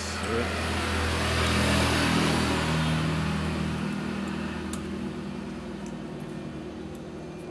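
A motor vehicle passing by: engine noise swells to a peak about two seconds in, then slowly fades.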